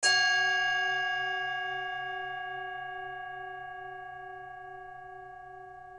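Singing bowl struck once, then ringing on and slowly fading, with a slight wavering in its lower tones.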